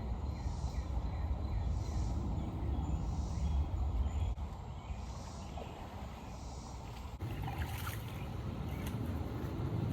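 Footsteps at a steady walking pace, over a low rumble of wind and handling noise on the microphone; the sound changes abruptly about seven seconds in.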